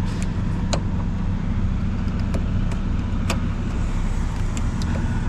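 Kenworth T680 semi truck's diesel engine idling with a steady low hum. A couple of sharp clicks sound over it, about a second in and again past three seconds.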